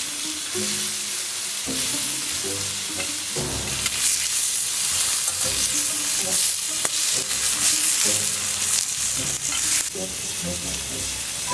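Food sizzling steadily as it fries in hot oil.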